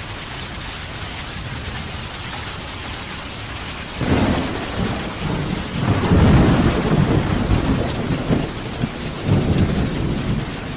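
Steady rain falling, then about four seconds in a thunderclap cracks and rolls into a long, pulsing rumble of thunder that swells and fades over several seconds.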